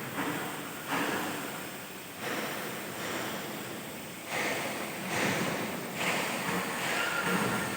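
Automatic metal-plate cutting machine hissing, with uneven surges about every second or two.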